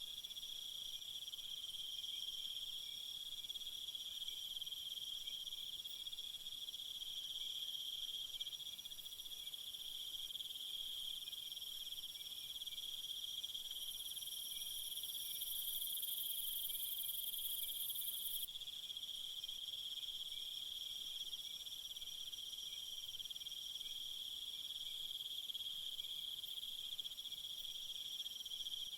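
Crickets chirring steadily in a high, continuous chorus. About halfway through, a still higher-pitched insect buzz joins in for a few seconds, then cuts off suddenly.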